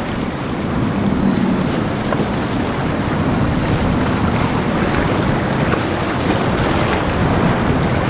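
Wind buffeting the microphone over rushing water and surf, with a passing boat's engine hum fading away in the first couple of seconds.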